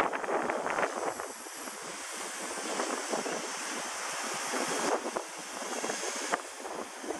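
Walkera V120D02 micro RC helicopter flying, its electric motor and rotor making a high whine that shifts in pitch, dropping about five seconds in and again a little after six. Gusty wind buffets the microphone at the start.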